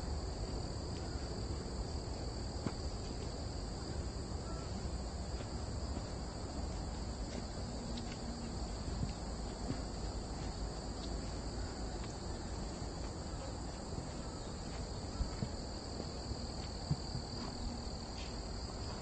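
Steady chorus of summer insects: an even, high-pitched drone that holds without a break, over a low outdoor rumble.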